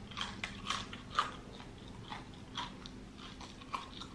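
Close-up chewing of a mouthful of Checkers french fries, with crisp crunching bites that come thickest in the first second or so and then slow to scattered chews.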